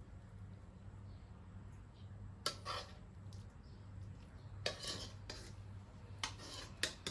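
A metal utensil clinking and scraping against a pan or dish in four short bursts about two, five, six and seven seconds in, over a low steady hum.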